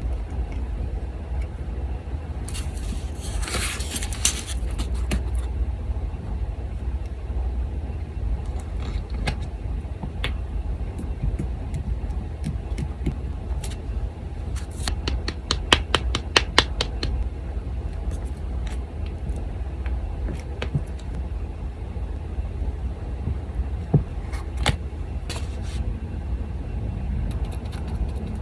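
Paper handling sounds: a burst of rustling about three seconds in, scattered light taps, and a quick run of clicks near the middle, over a steady low hum from an electric fan.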